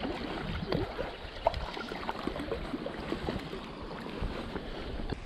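Small stream flowing close by, an even rush of water with many small irregular gurgles and plops.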